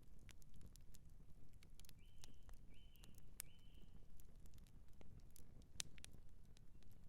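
Campfire burning with irregular crackles and sharp pops over a low rumble. About two seconds in come three short, high chirps in quick succession.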